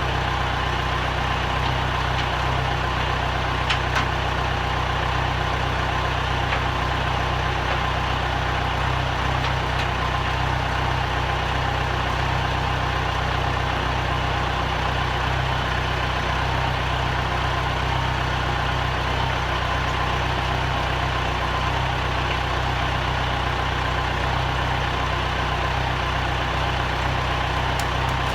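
Tractor engine running steadily at an even speed, a constant low drone.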